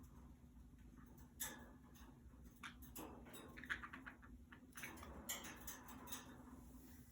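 Faint, irregular clicks, taps and scratchy rustles from budgies moving about and pecking in their cage.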